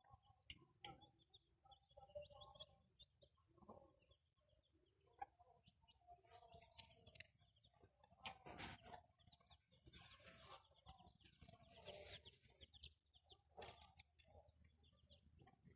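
Chickens clucking quietly, mixed with many short high peeps, and a few brief rustling noises among them.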